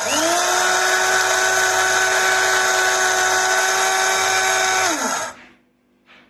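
A 300 W electric blade coffee grinder with stainless steel blades spins up quickly. Its motor runs with a loud, steady whine for about five seconds, then winds down in pitch and stops.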